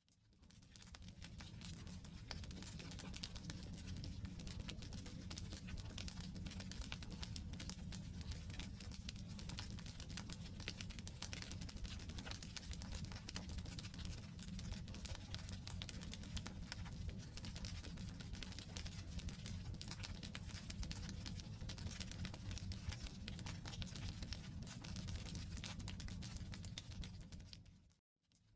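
Wood campfire burning, crackling steadily with many small snaps and pops over a low rumble of the flames. It fades in at the start and drops out briefly near the end.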